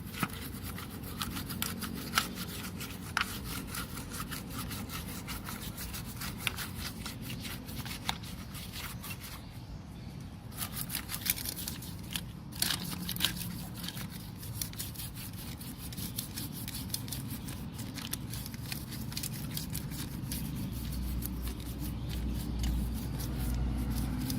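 Repeated scraping and rubbing with many small clicks and taps, as of hand work on a radio cassette player under repair. A low hum comes in near the end.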